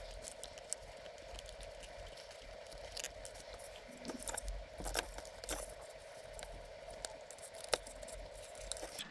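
Faint, scattered clicks and taps of small plastic model-locomotive parts being handled and fitted, over a steady hum.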